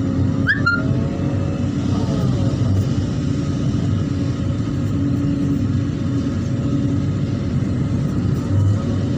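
Hydraulic excavator's diesel engine running with a steady low rumble, with a brief rising squeal about half a second in.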